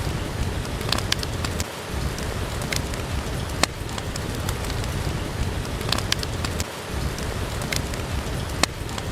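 Steady rain with a wood fire crackling, its sharp pops coming at irregular moments over the rain's even hiss.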